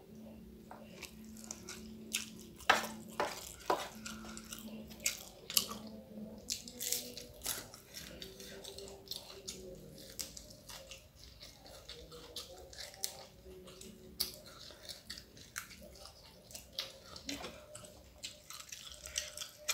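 Close-up mouth sounds of someone eating crispy fried salted fish with rice and raw vegetables: irregular chewing with many short, sharp clicks, smacks and crunches, over a faint steady low hum.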